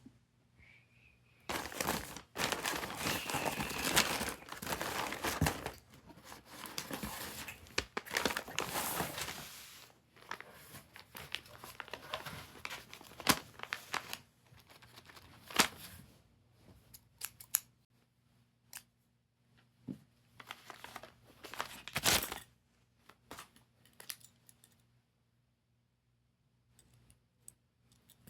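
Plastic and paper snack packaging crinkling and tearing as a blind bag of snacks is opened and unpacked by hand. The rustling is dense and continuous for the first ten seconds or so, then breaks into scattered crinkles and sharp clicks.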